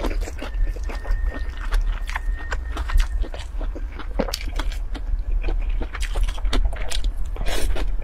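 Close-miked wet chewing of a chilli-dressed salad of tofu-skin strips, with many small sharp mouth clicks and smacks. A steady low hum runs underneath.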